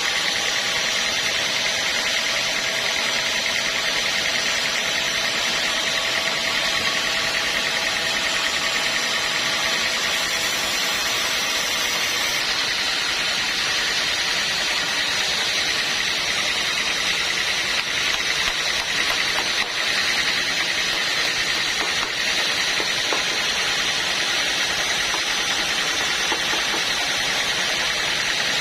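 Sawmill machinery running steadily: a continuous mechanical noise with no pauses or strikes.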